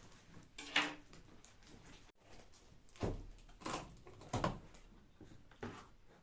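Household objects being handled: about five separate knocks and clatters, the loudest about a second in.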